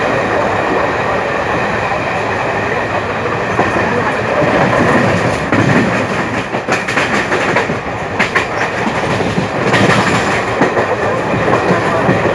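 Moving passenger train: a steady rumble of coach wheels on the track with a clickety-clack of rail joints, with clusters of clicks around the middle and again near the end.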